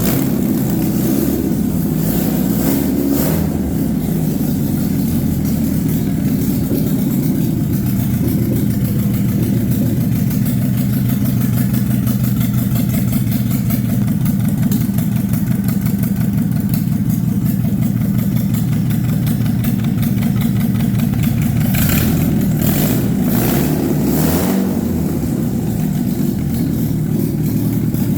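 Alfa Romeo 1600 cc engine running steadily on its first run after 50 years standing, its note shifting briefly with a few sharp sounds a little over three-quarters of the way through.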